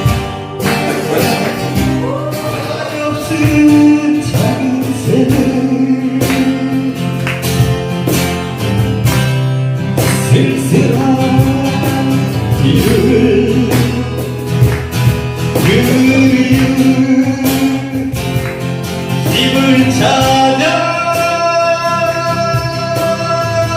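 Acoustic guitar strummed in a steady rhythm with singing over it.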